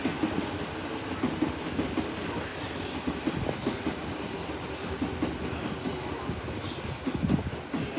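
Electric train running alongside the station platform, its wheels giving a steady run of uneven clicks and clatter over the rails.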